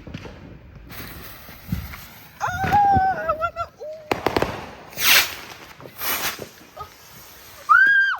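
Consumer fireworks going off: a few sharp bangs in the second half, loudest about five and six seconds in.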